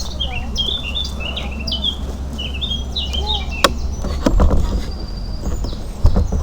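A small bird chirping, a quick run of short high chirps through the first four seconds or so, over a steady low rumble with heavier surges and a few sharp knocks near the middle and end.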